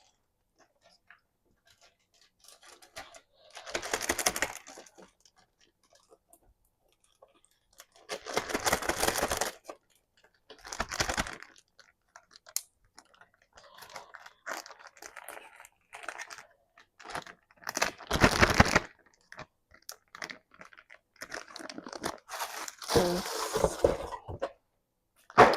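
Plastic bags and food packaging rustling and crinkling as they are handled, in about six bursts of one to three seconds with quiet gaps between.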